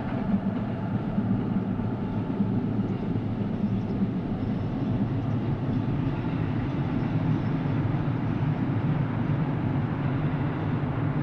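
Boeing 737-800 jet engines running with a steady low rumble.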